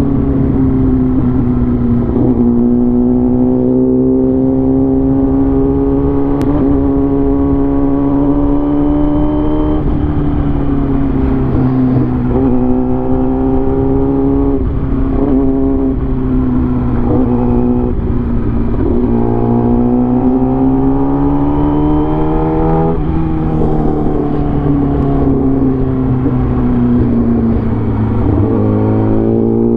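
A vehicle engine running under way, its pitch climbing slowly as it accelerates and dropping suddenly about ten seconds in, then climbing again. Later it runs down gradually as the vehicle slows and picks up again near the end, over a steady low rumble of road and wind.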